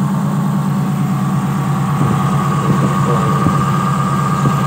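Toyota Kijang Super's carburetted petrol engine idling steadily on LPG fed through a simple converter kit, still on the carburettor's stock settings, with the air conditioning on. The mechanic says the idle is still set too high with the AC on. A steady higher whine joins about two seconds in.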